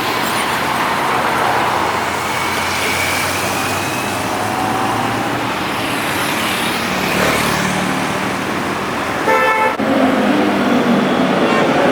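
Road traffic passing steadily, with a vehicle horn sounding briefly about nine seconds in, then a louder engine running close by.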